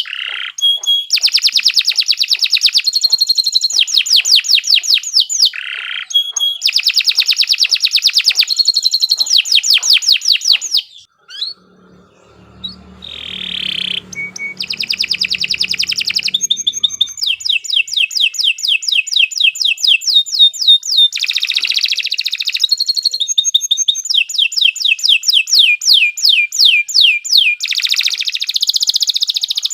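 Domestic canary singing a long song of rapid trills, each phrase a fast run of the same high note repeated many times a second before switching to a new note. The song breaks off briefly about eleven seconds in, then resumes.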